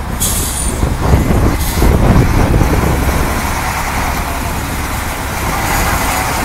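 Heavy truck engine running under load with a low, continuous rumble, with two brief hisses in the first two seconds.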